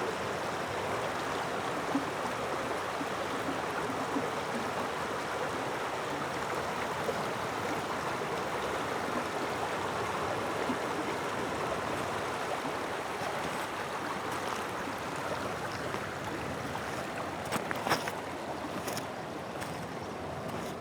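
Shallow stream running over stones, a steady babble with no swell. Near the end the water eases slightly and a few sharp clicks and knocks sound.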